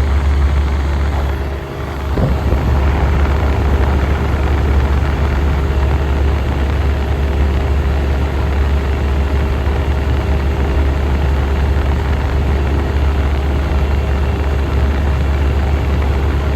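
1967 Chrysler Airtemp Imperial air conditioner running: a steady, loud low hum with a broad rush of moving air over it, dipping briefly about two seconds in.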